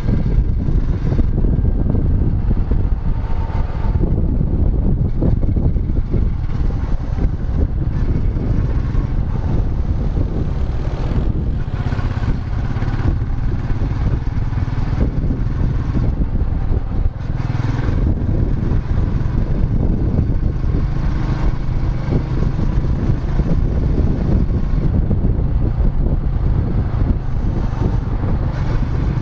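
Royal Enfield Meteor 350's single-cylinder engine running under way on the road. About 17 seconds in the level dips briefly, then a steadier engine note carries on.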